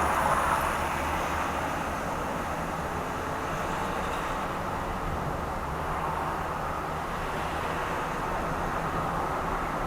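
Steady road noise of a car being driven: tyre and engine noise with a low hum, even throughout.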